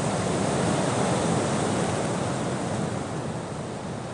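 Wind rushing outdoors, swelling about a second in and then easing off.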